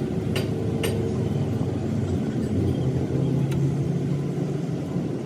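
Bulldozer diesel engine running steadily, with a few sharp clicks in the first second.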